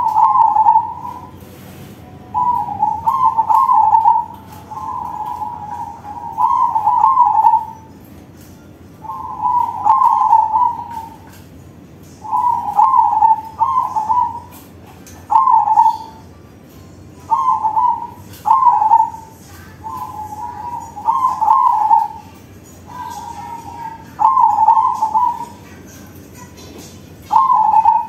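Crossbred zebra dove (perkutut) singing its cooing song: a string of about a dozen short, burbling coo phrases at one pitch, each under two seconds with brief pauses between.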